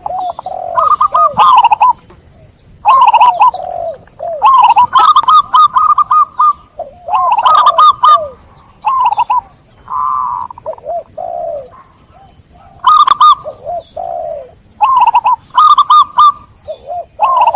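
Zebra dove (perkutut) singing: phrases of quick, rippling coos repeated about every two seconds, with short pauses between them.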